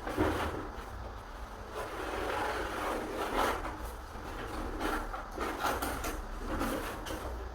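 Scraping and rubbing on wood in uneven strokes.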